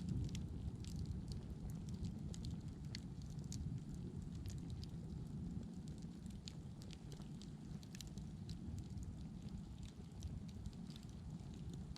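Wood fire crackling: scattered sharp pops and snaps, several a second, over a steady low rumble of the burning.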